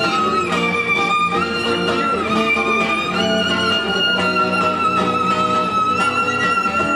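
Violin playing a melody of long held notes with a slight waver, stepping to a new pitch every second or two, over guitar accompaniment in an instrumental break of the song.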